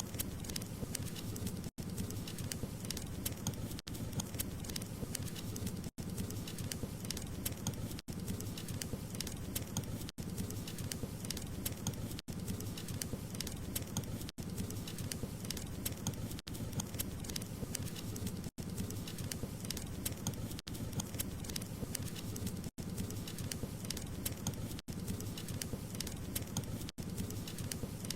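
Wood fire burning in a fireplace: a steady low rush of flames with many small, quick crackles and pops, broken by very brief gaps about every two seconds.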